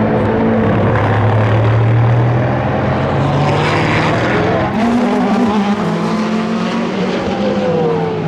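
WEC endurance race cars at speed, several engine notes overlapping, with a shift in pitch about halfway through.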